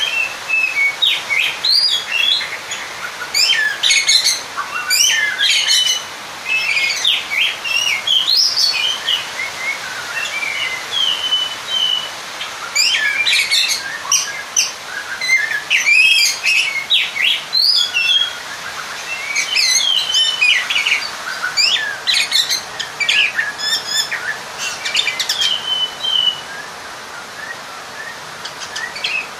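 Oriental magpie-robin (kacer) singing a rapid, varied song of whistles and harsh chattering notes in phrases with short pauses, stopping a few seconds before the end. It is the aggressive challenge song of a bird calling out a rival.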